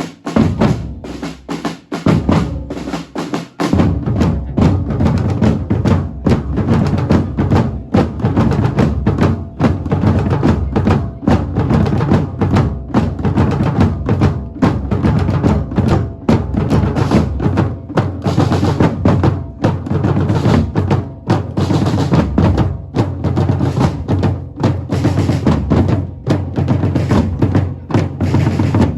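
Drums played in a fast, dense, continuous rhythm, with deeper drum beats coming in about three and a half seconds in.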